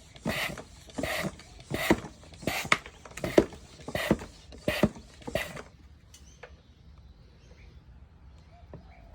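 Hand-operated oil extraction pump being pumped, about eight even strokes at a little over one a second, building vacuum to draw warm engine oil out of a mower's sump through its tube. The strokes stop about six seconds in.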